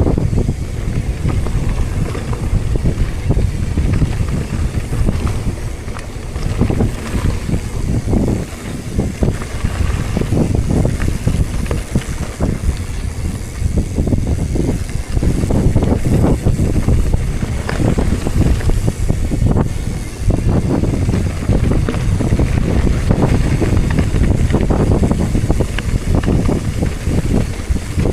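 Wind rushing and buffeting over the microphone of a moving rider, a loud low rumble that swells and dips in gusts.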